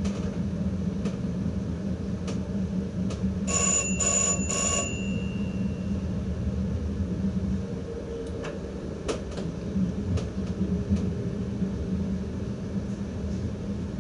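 Steady running rumble in the cab of an ICM (Koploper) electric train, with scattered sharp clicks. About three and a half seconds in, an electric bell in the cab rings in three quick bursts.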